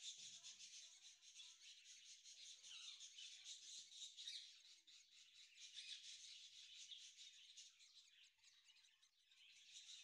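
Faint, continuous high-pitched bird chirping, a dense run of rapid chirps.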